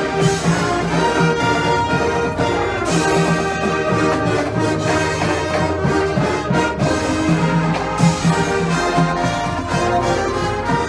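Marching band playing its show, the brass section (trombones, trumpets, horns) carrying sustained chords and melody.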